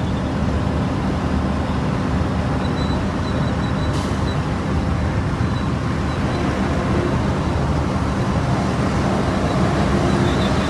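Volvo FM truck engine running steadily with a low rumble, with a single short click about four seconds in.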